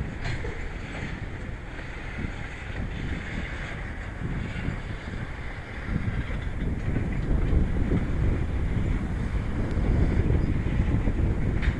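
Freight train rolling past with a steady low rumble that grows louder about halfway through, with wind buffeting the microphone.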